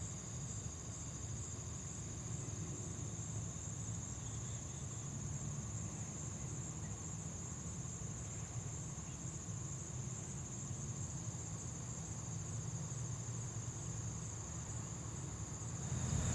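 Steady high-pitched trilling of field crickets, a continuous insect chorus, over a low steady rumble.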